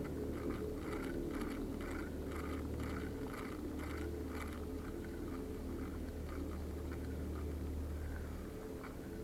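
A motor running with a steady low hum. For the first few seconds a light squeak or scrape repeats about two to three times a second.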